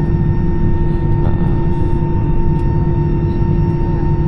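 Airbus A320's CFM56 jet engines running at taxi idle, heard from inside the cabin as a steady low rumble with a constant fixed tone over it.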